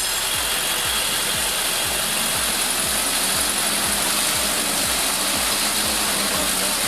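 Heavy 6x6 off-road truck's engine running steadily, with a wide hiss and a regular low pulsing.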